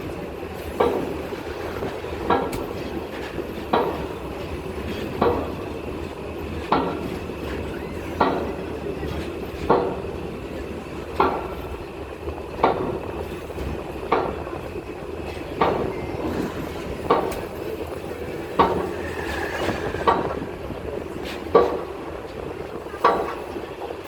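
Train wheels clacking over rail joints, heard from aboard the moving train: one sharp clack about every one and a half seconds over a steady rolling rumble, with a brief high tone about two-thirds of the way in.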